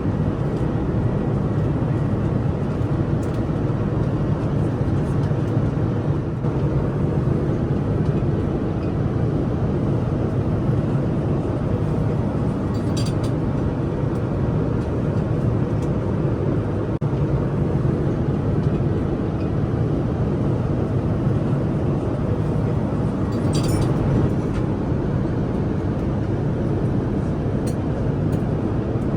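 Steady cabin noise of a Boeing 787-9 airliner: an even rumble of engine and airflow, heaviest in the low range, with two faint clicks about halfway and two-thirds of the way through.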